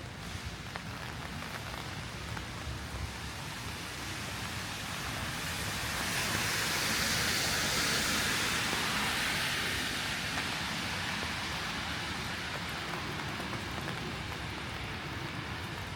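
Heavy rain falling steadily. About five seconds in, a louder rushing hiss swells up and then fades away over several seconds.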